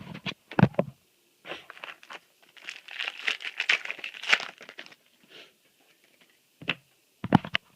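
A foil trading-card booster pack being torn open and crinkled, a dense papery rustle lasting about three seconds, with a few sharp clicks at the start and near the end.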